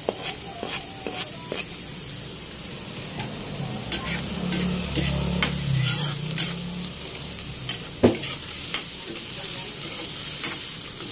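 Chopped garlic, onion and ginger sizzling in hot oil in a wok, stirred with a metal spoon that clicks and scrapes against the pan again and again.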